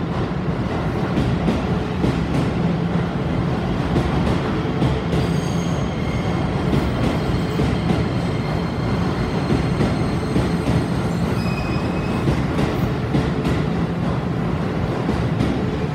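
Keio Line electric commuter train pulling out of a station, its cars rolling past with a steady rumble and sharp wheel clicks. From about five seconds in to about twelve, thin high-pitched tones ring above the rumble.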